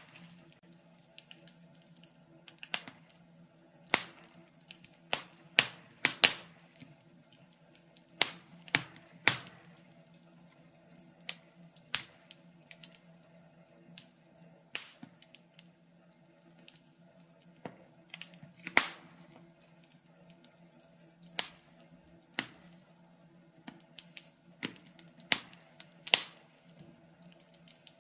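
Wood fire in a fireplace crackling: irregular sharp pops and snaps, a handful much louder than the rest, over a faint steady hum.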